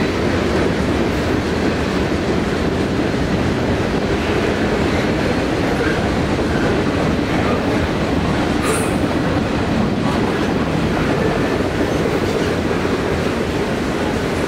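A long freight train of tank cars, covered hoppers and double-stack container cars rolling past at steady speed, its wheels rumbling on the rail joints with a clickety-clack. Faint wheel squeal comes and goes, with one short high squeak just past the middle.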